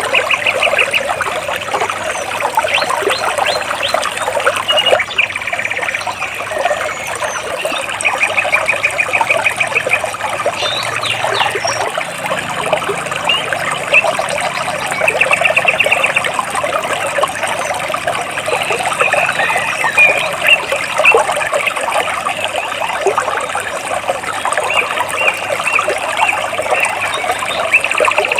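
Stream water trickling and splashing between rocks, with a bird repeating a short rapid trill several times over it.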